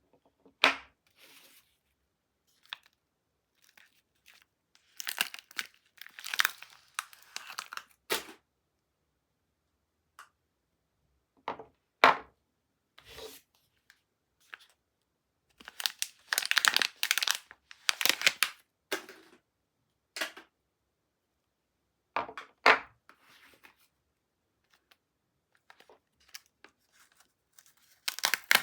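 Soap wrapping being torn open and crinkled by hand, in a series of separate rustling bursts with short silent gaps between them.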